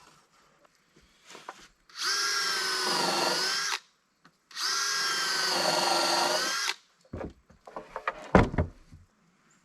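Power drill running in two bursts of about two seconds each, its pitch sagging slightly in the middle of each as it takes load, then a few knocks and one heavy thump near the end.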